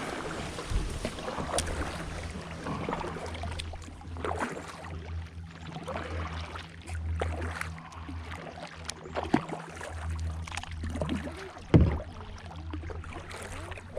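Kayak being paddled through waterside plants: irregular rustling and crackling of stems and leaves against the hull and paddle, with occasional knocks, the loudest about twelve seconds in.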